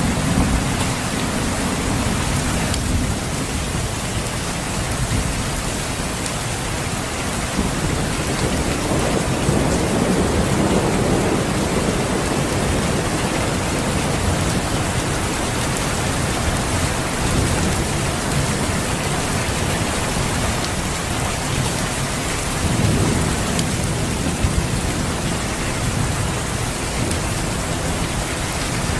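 Steady rain, a dense even hiss. Low rumbles swell up about a third of the way in and again near the end.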